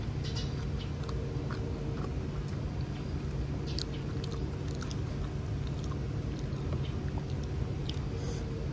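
Close-up chewing of a mouthful of red pork sausage, with scattered small wet mouth clicks, over a steady low hum.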